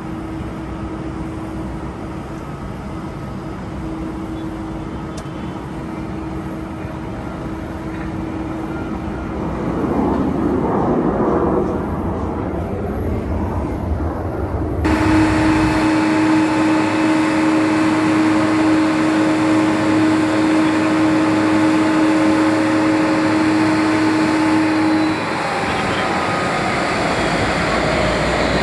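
Jet airliner engines running at the airport, a steady whine over a roar. About halfway through it turns abruptly louder, with a strong steady whine. Near the end a tone slides down in pitch.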